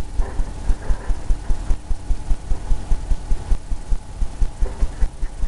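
Rapid, irregular low thumps, about three or four a second, of a paintbrush dabbing and scrubbing against the canvas on its easel.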